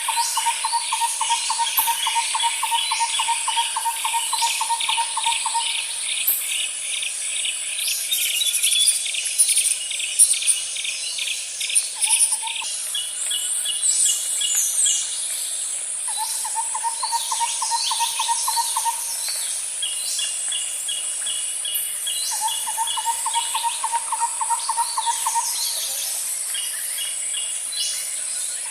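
Outdoor nature ambience: a steady high insect drone and fast pulsing cricket-like chirps, with scattered bird calls above them. A low, rapid trill comes and goes in runs of a few seconds.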